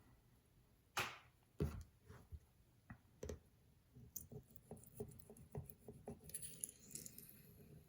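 Quiet handling clicks and taps from a pocketknife and sharpening stones: two sharper knocks about a second in, then a run of light clicks, with a faint hiss near the end.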